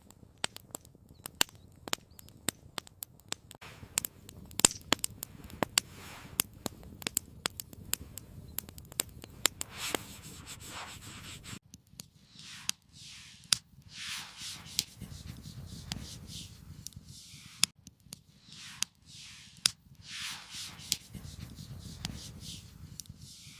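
Campfire crackling with many sharp, irregular pops. About halfway through it cuts off suddenly, and repeated rustling or rubbing strokes follow, about one a second.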